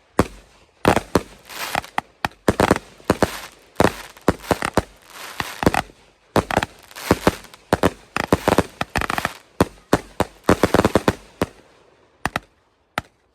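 Fireworks going off: rapid sharp cracks and bangs in dense clusters, thinning to a few scattered pops near the end.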